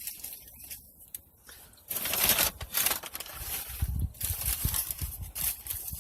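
Paper sandwich wrapper rustling and crinkling as a McMuffin is unwrapped, with low bumps of handling near the end.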